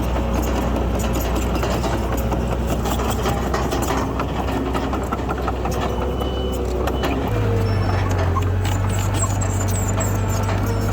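Diesel engine of a Komatsu D31PX bulldozer running steadily; about seven seconds in its engine note steps up and holds higher as it revs under load.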